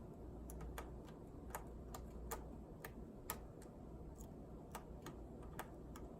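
Faint, sharp, irregular clicks, two or three a second, as a small screwdriver works tiny screws out of a laptop's plastic bottom case.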